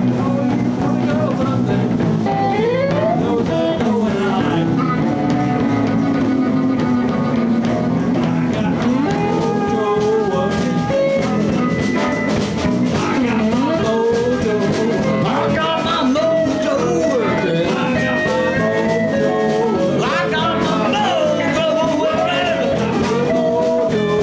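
Live blues band playing an instrumental break in a blues song: electric guitar, bass and drums, with a lead instrument bending notes up and down.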